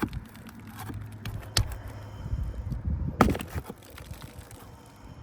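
Hand tools working on asphalt roof shingles and their nails, with scraping and a few sharp clicks. The loudest click comes about three seconds in.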